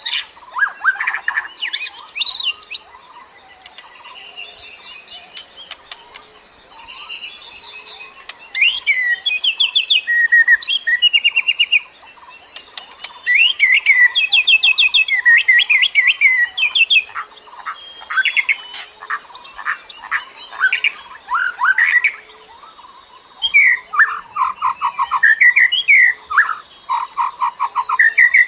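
A songbird singing in bouts of quick repeated notes and trills, pausing for a few seconds near the start. A faint low note repeats about once a second beneath the song.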